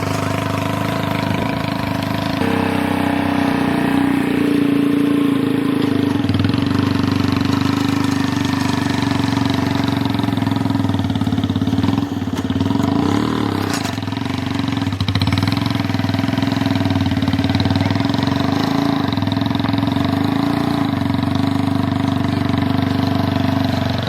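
Mahindra XP Plus tractor's diesel engine running steadily.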